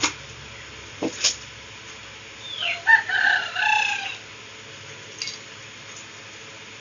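A bird's single crowing call, about a second and a half long, a couple of seconds in, with a few light knocks and clicks around it.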